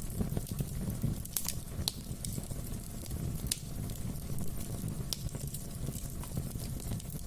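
Fireplace wood fire burning: a steady low rush of flames with sharp, irregular crackles and pops from the logs.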